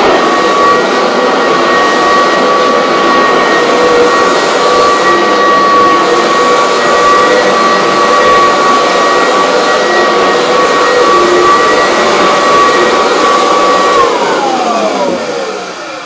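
Vacuum cleaner running steadily with a loud rushing hiss and a high motor whine. About 14 s in it is switched off: the whine slides down in pitch and the sound fades as the motor spins down.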